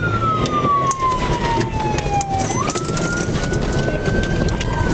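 Police car siren wailing, its pitch sliding slowly down, sweeping quickly back up about halfway through, then climbing and starting to fall again near the end, over steady engine and road noise from the speeding patrol car.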